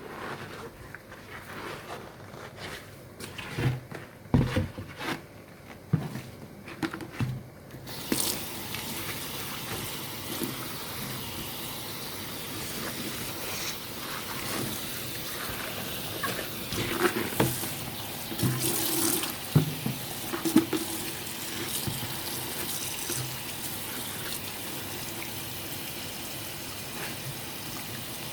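Knocks and bumps of things being handled, then, about eight seconds in, a tap starts running water steadily into a sink, with more clatter over it.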